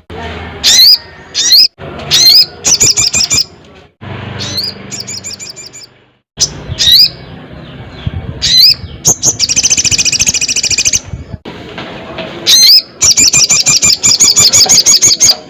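Sogon sunbird singing loudly: short, sharp, high-pitched swooping notes, breaking twice into long, fast chattering trills, the first about nine seconds in and the second near the end.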